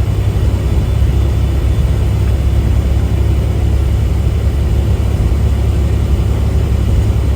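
Semi-truck cruising at a steady speed, heard from inside the cab: a steady low engine and road drone with no change in pitch.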